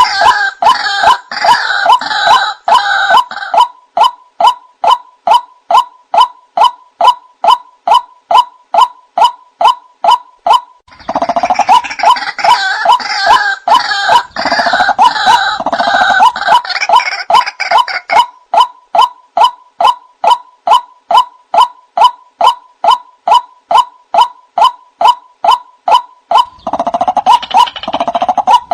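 White-breasted waterhen (ruak-ruak) calling: a steady string of short 'ruak' notes about twice a second, broken by louder bouts of harsh croaking at the start, from about 11 to 18 seconds in, and again near the end. This is a lure recording used to call the birds in.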